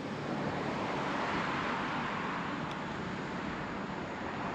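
Road traffic noise, a steady hiss of cars on the road, growing a little louder about a second in and then easing off.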